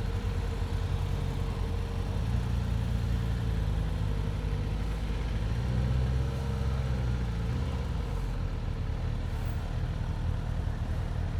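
Motorcycle engine running steadily at low revs, a continuous low hum.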